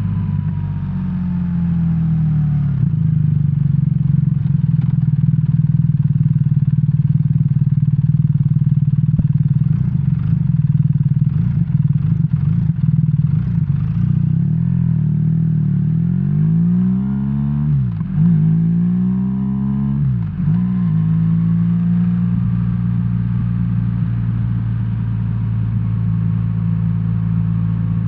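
BMW R1300R boxer-twin engine running under way at a steady pitch, with a few faint ticks partway through. Past halfway it rises in pitch and drops back sharply twice, then settles to a steady run.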